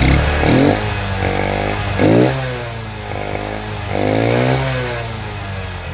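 Bajaj CT 100 single-cylinder motorcycle engine revved three times from idle through its modified silencer, each rev rising quickly and falling back to idle.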